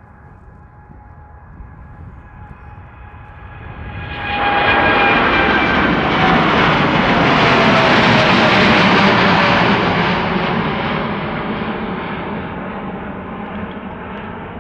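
Large jet airliner taking off at full thrust and passing close by. A whine that slides down in pitch grows into a loud rush about four seconds in, then slowly fades.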